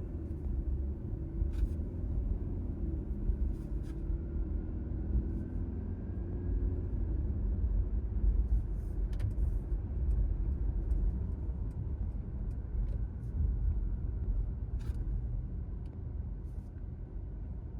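Car driving at road speed: a steady low rumble of engine and tyres on the road, with scattered small clicks and ticks.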